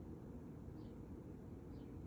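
Quiet room tone with a faint low hum, and a faint, short high chirp that falls in pitch, repeating about once a second.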